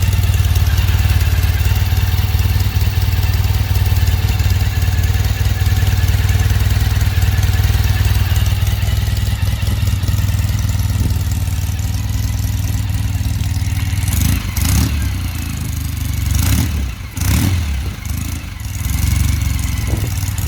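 1972 Norton Commando 750's parallel-twin engine idling steadily while it warms up after a cold start. In the last third there are several short surges, likely blips of the throttle.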